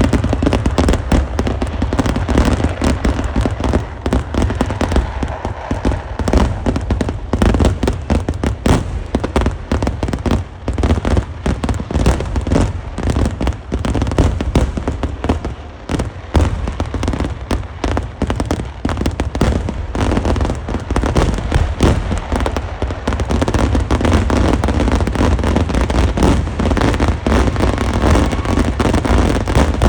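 Vedikettu fireworks barrage: a dense, continuous rapid-fire string of loud bangs and crackles overlapping one another, over a heavy low rumble.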